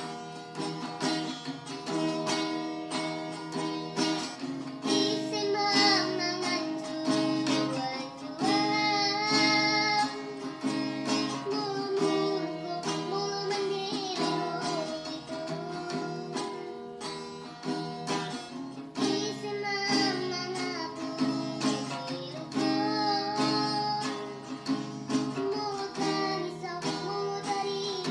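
A voice singing a melody over strummed acoustic guitar chords.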